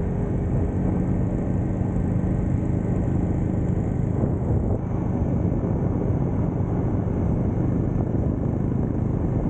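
Motorcycle engine running at a steady cruising speed with rushing noise as the bike is ridden along, with no changes in pace.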